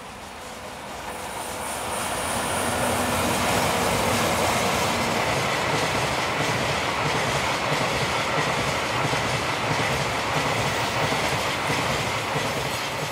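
Two EF64 electric locomotives approach and pass, followed by a long train of loaded oil tank wagons rolling by, their wheels running on the rails. The noise builds over the first three seconds, then holds steady as the wagons go past.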